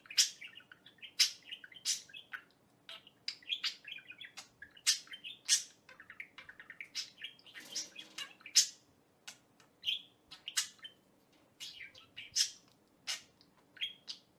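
Pet parrot chirping in many short, sharp, irregular chirps.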